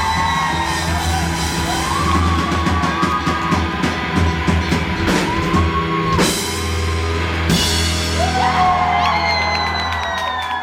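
Live rock band playing the closing bars of a song, with drums, bass and guitars, while audience members whoop and yell. The band stops near the end.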